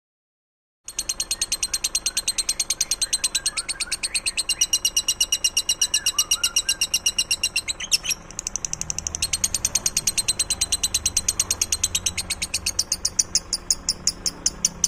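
A caged songbird singing a long, very fast trill of repeated high notes, about nine a second, starting about a second in, with a brief break about eight seconds in before it carries on.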